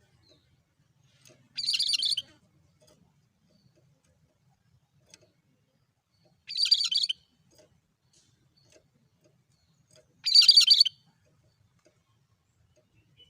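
Cucak kerinci singing its monotonous call: three short, high, rapid chattering bursts, each about half a second long, repeated every three to four seconds.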